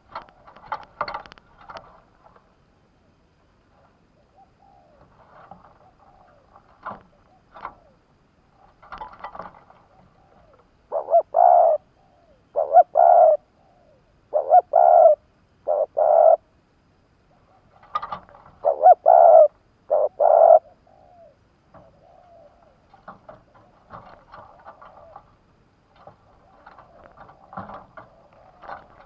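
Spotted dove cooing: two loud phrases of about four coos each in the middle, with fainter scattered sounds before and after.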